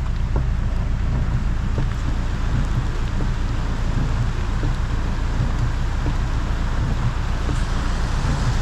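Steady rain hiss over a constant low vehicle rumble, with faint scattered taps.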